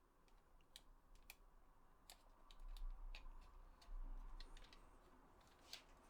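Faint handling of a PS4 controller and its charging cable: scattered light plastic clicks and taps, with low bumps about three and four seconds in.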